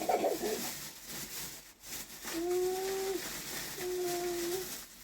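A high-pitched voice making two drawn-out, level-pitched calls, about a second in and near the end.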